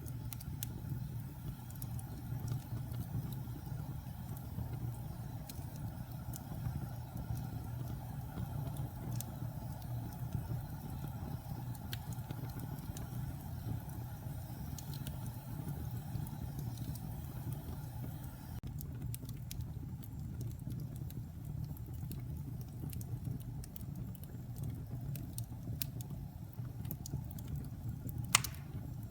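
Log fire burning in a fireplace: a steady low rumble with scattered crackles and pops, and one louder pop near the end.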